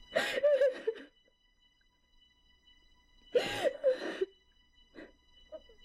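A woman sobbing: two bursts of crying with gasping, wavering breaths, each about a second long and about three seconds apart.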